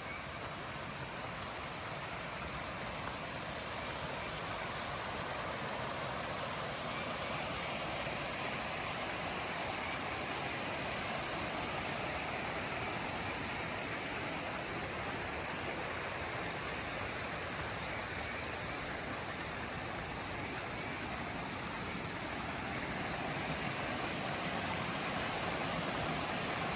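Rushing creek water, running high after heavy overnight rain, a steady rush that grows slowly louder, more so near the end.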